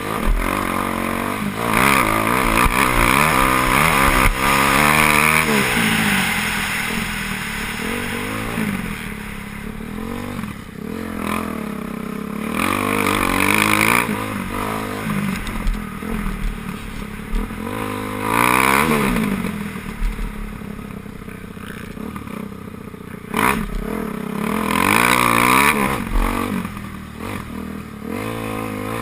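Motocross bikes racing, their engines revving up and down in pitch, with louder swells every few seconds as bikes pass close.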